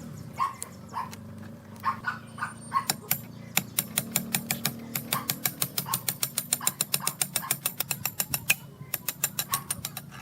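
A fast, even run of sharp taps or knocks, about five or six a second, starting about three seconds in and stopping shortly before the end. Short, intermittent dog barks are heard in the background, over a steady low hum.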